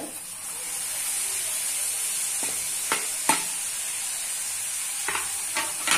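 Chopped tomatoes sizzling as they go into hot roasted masala in a metal kadhai, the sizzle swelling about half a second in. A spatula clicks and scrapes against the pan a few times while stirring, near the middle and again toward the end.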